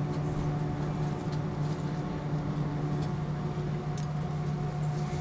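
Steady airliner cabin noise heard from inside the passenger cabin: a continuous rush with a constant low hum and a few higher steady tones from the engines and air systems.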